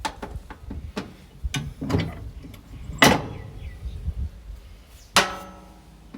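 A series of sharp metal knocks and clanks as distributor parts and tools are handled, with two louder strikes about three seconds in and just after five seconds that ring on briefly.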